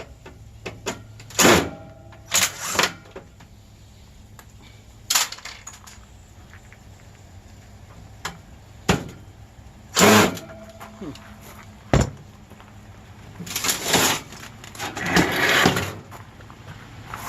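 Irregular metal clanks and bangs, some with a brief ringing after them, from air conditioner units being torn apart for scrap metal.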